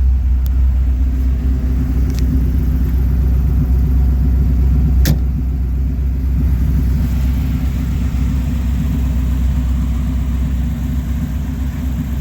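GM ZZ3 350 small-block V8 crate engine of a custom Model A pickup running with a steady, deep exhaust rumble. A few brief sharp clicks sound over it, the loudest about five seconds in.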